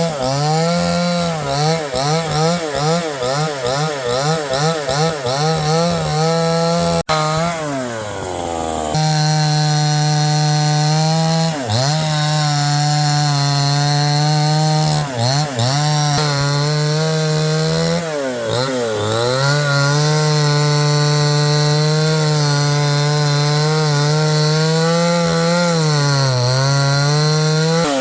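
Two-stroke chainsaw running at high revs while cutting wood. For the first several seconds its pitch wavers up and down about twice a second. After a short break about seven seconds in, it runs steady and high, sagging briefly now and then as the chain bites.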